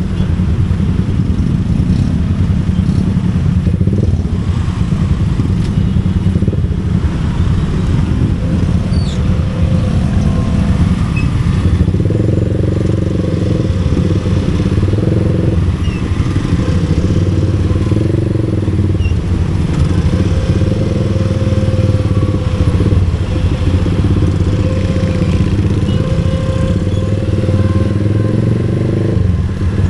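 Motorcycle engine running steadily on the road, with its note rising and easing off now and then from about twelve seconds in.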